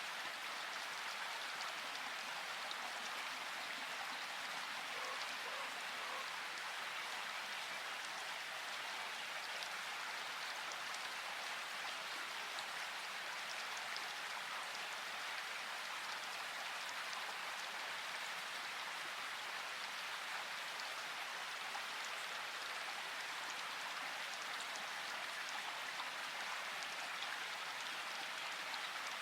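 Steady rain falling, an even hiss of drops with faint scattered ticks of individual drops hitting a surface.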